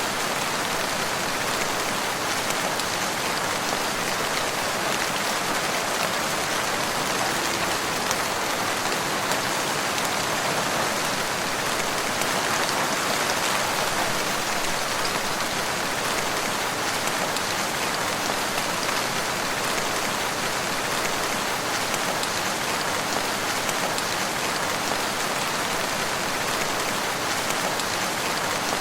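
Steady rain falling in a forest, an even, unbroken hiss of rainfall on leaves and ground.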